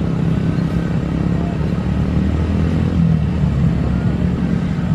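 Jet airliner engines running, a steady low rumble with faint gliding whines above it.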